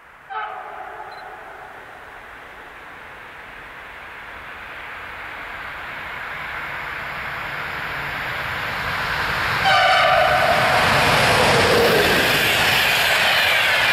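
PKP Intercity EU44 (Siemens ES64U4 Taurus) electric locomotive sounding its horn as it approaches with a passenger train: a faint blast right at the start and a second, much louder one about ten seconds in. Between them the rumble of the train grows steadily, and near the end the coaches rush past at speed.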